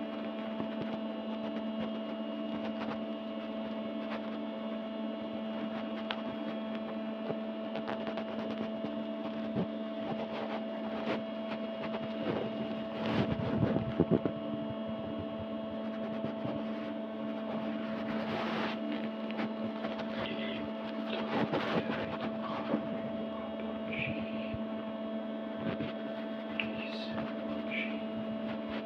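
A steady electrical hum made of a few fixed low tones, with scattered small clicks and knocks and a louder rustling handling noise about thirteen seconds in.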